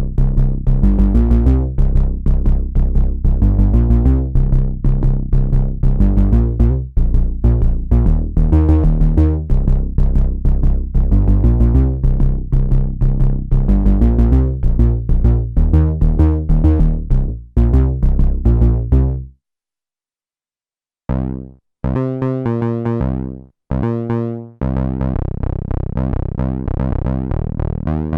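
Korg monologue analog monophonic synthesizer playing a fast step-sequenced bass pattern of short, punchy repeated notes. It stops about 19 seconds in, and after two seconds of silence a new preset starts with a few short stabs, then another fast sequence.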